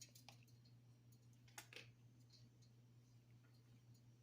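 Near silence with a steady low hum and a few faint, scattered clicks.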